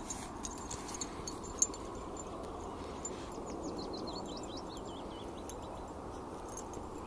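Steady low background noise with scattered light clicks in the first two seconds, one sharper than the rest, and around the middle a short, rapid run of high bird chirps.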